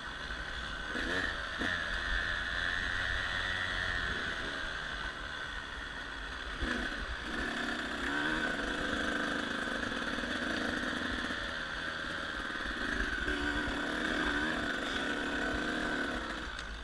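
Dirt bike engine running, its pitch rising and falling as the throttle changes, over a low rumble of wind noise.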